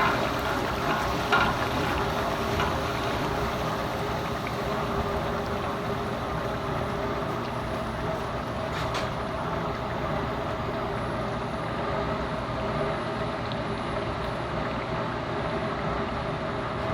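Chicken gizzards frying in masala in a pot over a gas flame: a steady rumbling sizzle, with a couple of short clatters about a second in.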